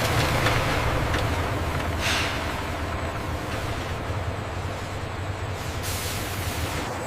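Industrial processing machinery running with a steady low hum under a broad hiss, with a sharper burst of hiss about two seconds in.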